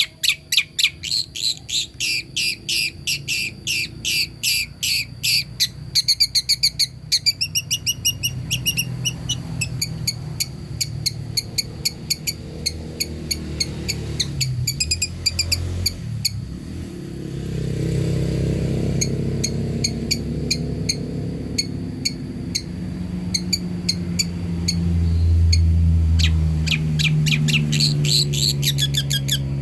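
Long-tailed shrike (cendet) giving rapid, evenly repeated sharp chirps, about three a second, that fade out in the middle and come back near the end. A low droning noise builds up underneath and is the loudest sound in the second half.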